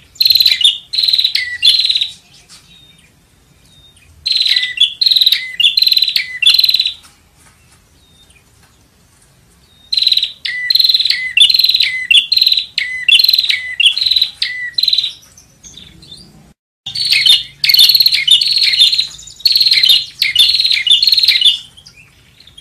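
Prinia (prenjak) calling: four runs of sharp, evenly repeated chirping notes, each run a few seconds long and separated by short pauses, used as a lure call.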